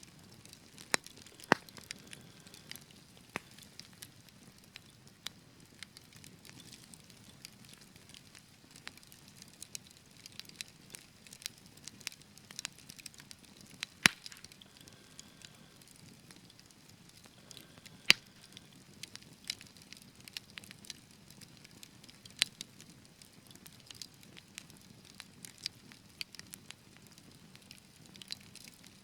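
Wood fire crackling over a low steady hiss, with irregular small pops and a few louder sharp snaps, the loudest about 14 and 18 seconds in.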